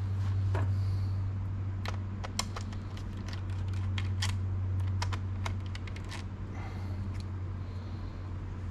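Scattered small sharp clicks and taps of a screwdriver and the plastic case of a Lenovo ThinkPad E550 laptop being worked on during disassembly, over a steady low hum.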